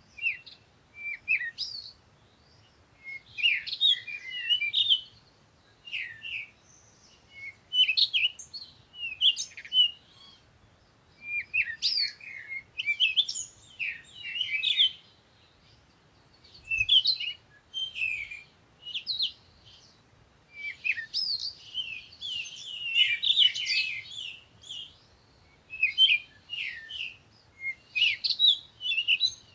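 Songbirds chirping and twittering in short, rapid bursts of high notes. The bursts come every second or two, with several birds overlapping at times.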